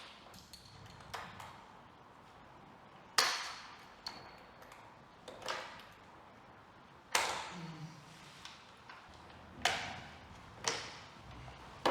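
Hand tools and metal parts clinking and knocking while a motorcycle is being taken apart: about nine sharp, irregular strikes, the loudest about three seconds in, some leaving a brief high metallic ring.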